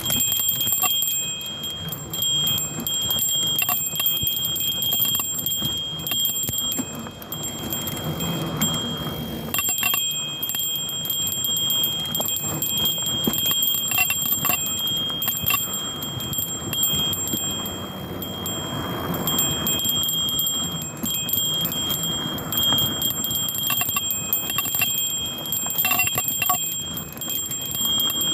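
A bell on a downhill mountain bike ringing without let-up as the bike is jolted over rough trail: a high, steady ringing that breaks off briefly twice. Beneath it is a rough rumble of tyres and wind.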